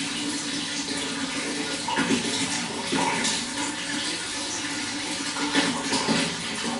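Running water flowing steadily, a continuous rush with small splashes and gurgles.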